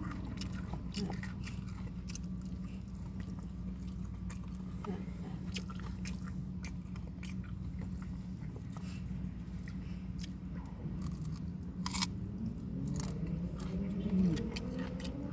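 A person chewing and biting crunchy food close to the microphone, with scattered crisp crunches, over a steady low hum.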